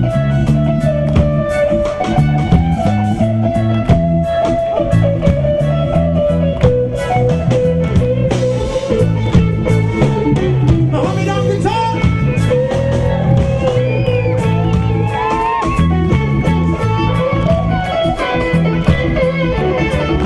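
Live reggae band playing an instrumental passage, with a guitar solo of sliding, bent notes over bass and drums.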